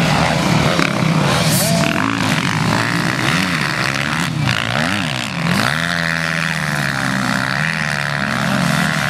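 Motocross motorcycle engines racing on a dirt track, revving up and down again and again as the riders accelerate, shift and back off, with more than one bike heard at once.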